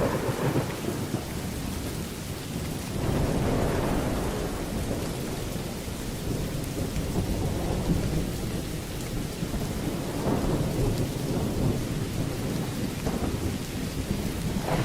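Thunderstorm: steady rain with low rolling thunder that swells twice, about three seconds in and again about ten seconds in.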